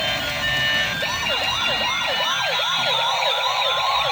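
Electronic siren of a toy police car sounding a fast yelp, its pitch sweeping up and down about three times a second from about a second in.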